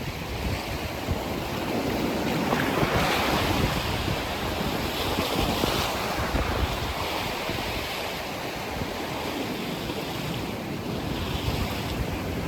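Ocean surf washing and breaking, swelling louder a couple of times, with wind buffeting the microphone.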